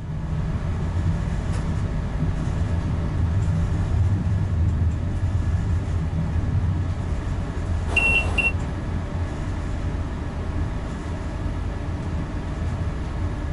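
Renfe Class 120 Alvia electric multiple unit running along the line, a steady low rumble of wheels and traction heard in the driver's cab. About eight seconds in there is a brief high squeal lasting about half a second.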